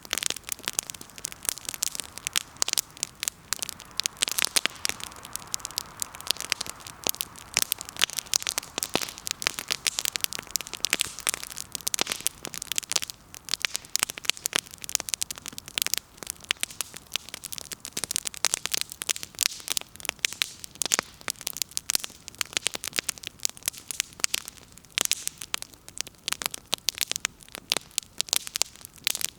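Firewood burning in an open campfire, crackling and popping continuously in quick, irregular snaps. A soft hiss rises under it for a few seconds near the start.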